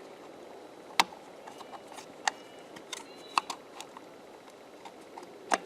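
Intermittent sharp clicks and light taps of plastic parts being handled, four louder ones among softer ticks: the cultivator's freshly oiled foam air filter and its cover being worked back into place.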